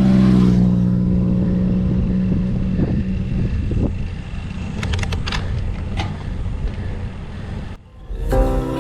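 A motor vehicle's engine running close by, its steady hum fading away over the first few seconds, over a constant low rumble. A few sharp clicks come around the middle, and music starts near the end.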